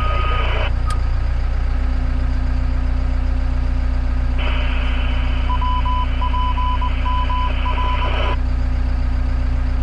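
Heavy machinery running with a steady low hum, joined by a steady motor tone a couple of seconds in. About halfway through, a warning alarm gives a run of short beeps over a brief hiss, then stops.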